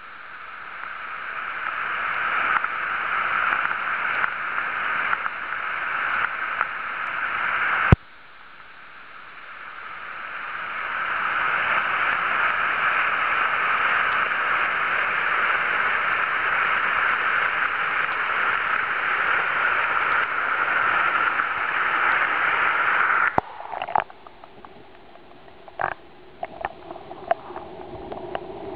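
Waterfall heard underwater: the steady rush of falling water and bubbles, swelling over the first few seconds. It cuts off abruptly with a click about eight seconds in, builds again, and stops suddenly about 23 seconds in, giving way to scattered gurgles and pops.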